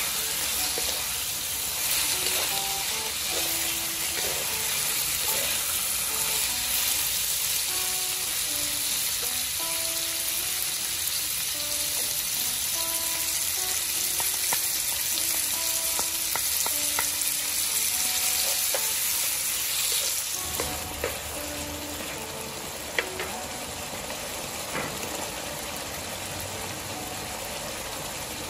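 Chicken organs sizzling in a non-stick wok as they are stir-fried, with clicks and scrapes of the spatula against the pan; about two-thirds of the way through the sizzle drops to a quieter hiss. Soft background music with short notes plays underneath.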